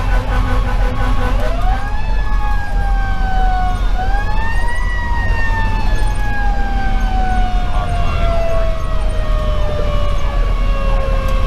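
Federal Q2B mechanical siren winding up about a second in and coasting down, given a second short wind-up around four seconds in, then sinking slowly in pitch. Under it runs the steady rumble of the fire engine's Detroit Series 60 diesel.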